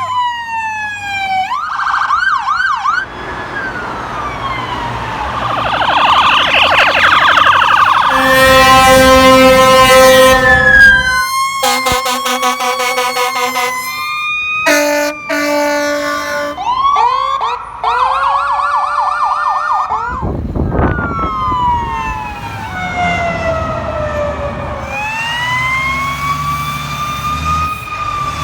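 Fire apparatus responding with sirens: electronic sirens wailing and yelping, long air horn blasts around the middle, and a mechanical Q siren winding down and then back up near the end.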